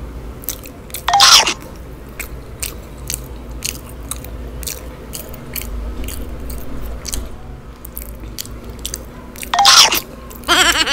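Close-miked chewing and biting of fried food, with many short wet mouth clicks. Two brief louder pitched sounds come about a second in and again near the end.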